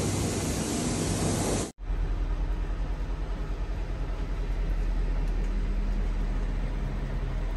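Train noise across a cut between two clips. First comes a loud rushing hiss with a low hum, which cuts off abruptly about two seconds in. It is followed by a deep, steady rumble that pulses quickly and evenly.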